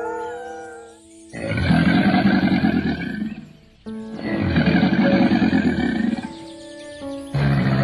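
A big cat roaring in rough, rasping calls, three times, each about two seconds long, over soft background music.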